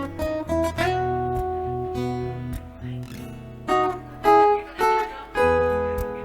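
Acoustic guitar instrumental played live: a picked melody over sustained chords and bass notes, with a few louder plucked notes in the second half.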